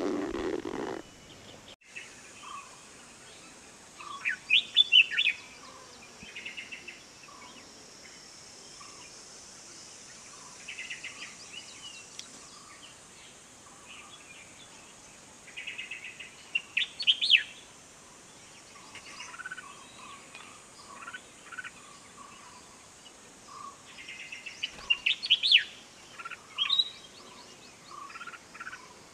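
Wild birds chirping and calling in short, bright bursts every few seconds, with fainter single notes scattered in between.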